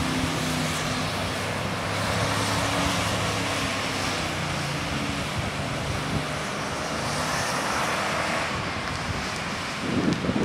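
Jeep Grand Cherokee WJ Overland's V8 engine running as it circles on beach sand, heard from a distance over steady surf. Its note dips slightly early on, then holds, fading toward the end, when wind begins buffeting the microphone.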